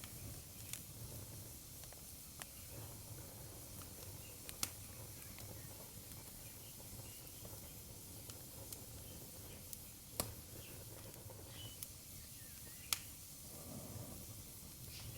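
Wood fire burning in a fireplace: a quiet, steady low rumble and hiss with sharp crackling pops scattered irregularly through it, a few standing out clearly.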